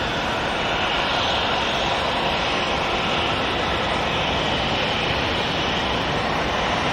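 Boeing 737 MAX 8's CFM LEAP-1B jet engines at takeoff power: a steady, loud rush of engine and airflow noise with a deep rumble underneath.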